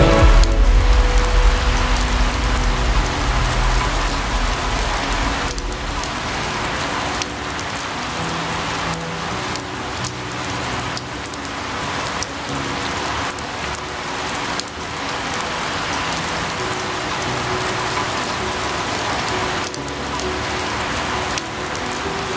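Steady rain falling, a dense even hiss, with a deep low rumble in the first few seconds that fades away.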